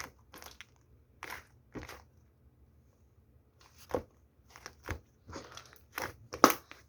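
Irregular crunching and crinkling noises, a series of short sharp bursts with a pause in the middle and the loudest near the end.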